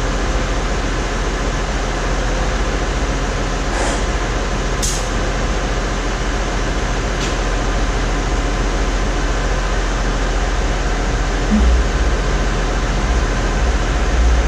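Tractor engine running steadily, with a few short sharp clicks about four, five and seven seconds in.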